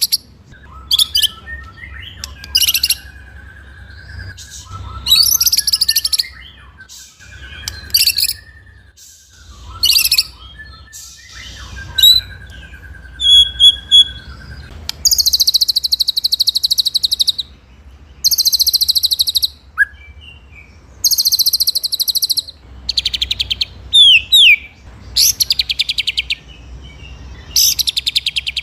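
White-rumped shama (murai batu) singing: loud, high, rapid rattling bursts of a second or two each, alternating with quieter whistled phrases, and quick sweeping whistles near the end.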